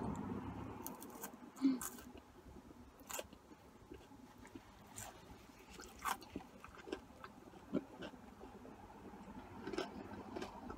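Mouth sounds of someone chewing cheesy curly fries, with scattered short smacks and clicks.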